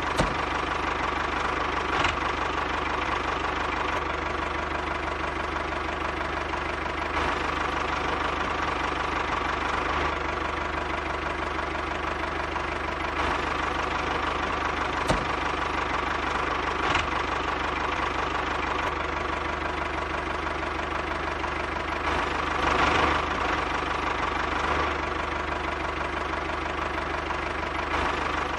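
Small motor of a DIY miniature engine-and-water-pump model running steadily, a constant mechanical hum with a few light clicks.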